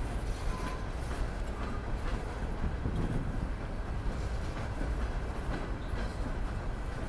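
Norfolk Southern freight train rolling past: a steady low rumble of the cars on the rails, with scattered faint wheel clicks.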